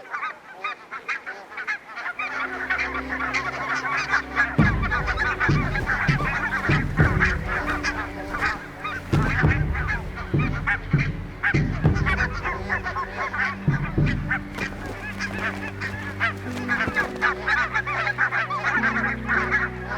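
Dense chorus of many barnacle geese honking and squabbling at a crowded breeding colony, short overlapping calls without a break. Low steady tones start underneath about two seconds in.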